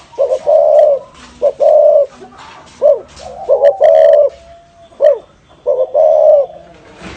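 Spotted dove cooing its 'thổ rền' call, a short coo followed by a longer wavering coo, repeated four times about every one and a half seconds.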